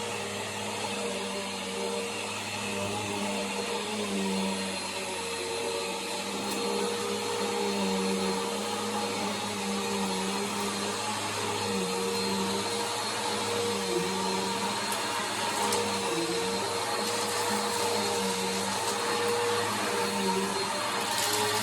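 Bissell Power Force upright vacuum cleaner running steadily, its motor pitch dipping slightly now and then as the load on it changes.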